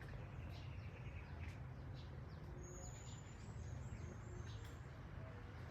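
Faint, high, short bird chirps and a few thin whistles over a low, steady background hum.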